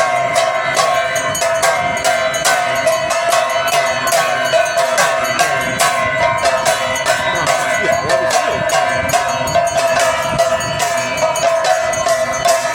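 Metal aarti bells ringing continuously in a fast, steady rhythm, with many rapid metallic strikes, as used in a Hindu evening aarti.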